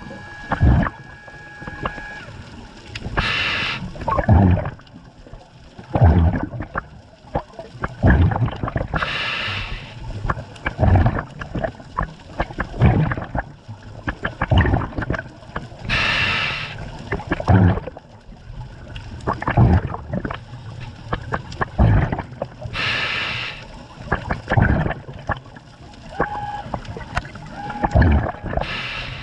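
Scuba diver breathing through a regulator underwater: a hissing inhale about every six to seven seconds, each followed by gurgling exhaled bubbles.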